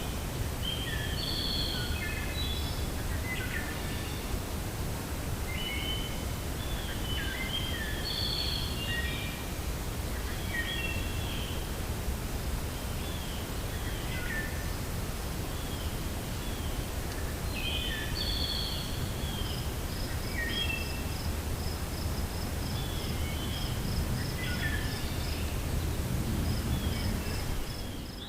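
Forest birds chirping and singing over a steady low wind noise. From about two-thirds of the way in, a fast, even series of high notes joins the chirps.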